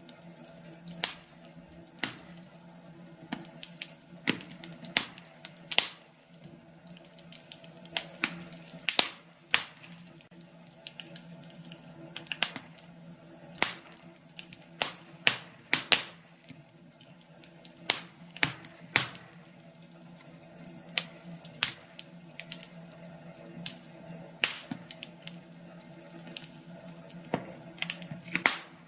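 Burning wood fire crackling, with irregular sharp pops of varying loudness over a faint low steady hum.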